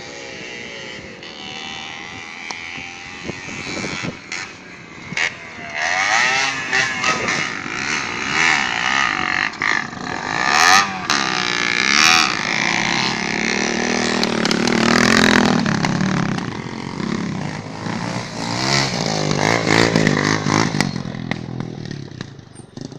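Street motorcycles racing on dirt, several engines revving up and down and overlapping as they pass, with a few sharp knocks around the middle. The engines fade away near the end.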